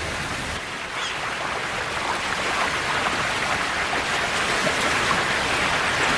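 Steady rush of river water pouring over falls, getting a little louder over a few seconds.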